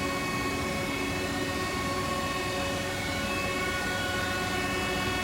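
2007 Haas VF-2B CNC vertical mill running: a steady mechanical whine of several tones over a hiss.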